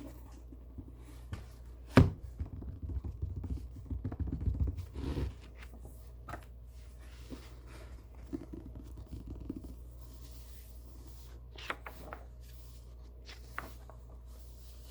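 Hands handling a book: a sharp tap about two seconds in, then a few seconds of crackling, scratching paper and tapping. After that come softer paper sounds and a few light taps.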